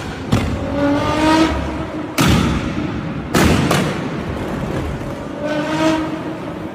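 Sports car exhaust revving in short rising blips, with loud sudden bangs from the exhaust several times.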